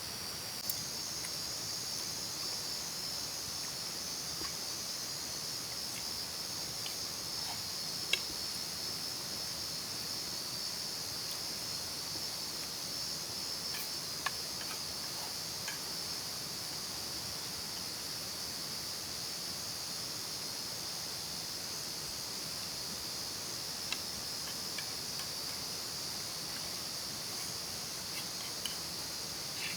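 A steady chorus of crickets chirring without a break, with a few faint scattered clicks.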